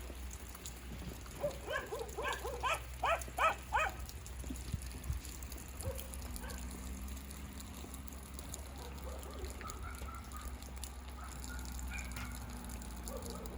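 A quick run of about seven short animal calls, each a brief yelp-like cry, starting a little under two seconds in, over a faint steady hiss of light rain.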